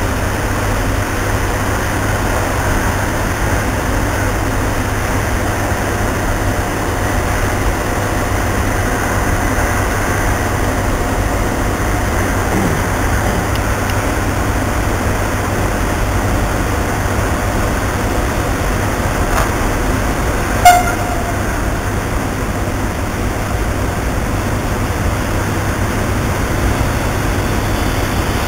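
Steady low rumble of a train at a railway station, with one short, sharp horn toot about two-thirds of the way through.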